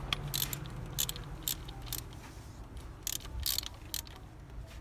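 Irregular metallic clicks and short scraping bursts of hand work on a Mercedes E350's fixed belt idler pulley, the pulley whose bearing is worn.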